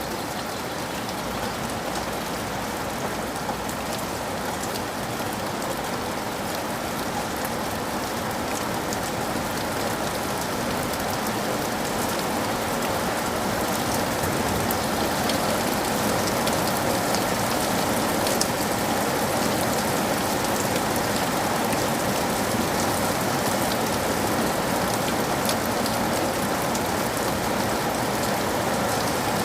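Steady rain falling, with many fine drop patters over a continuous hiss, growing slightly heavier through the stretch.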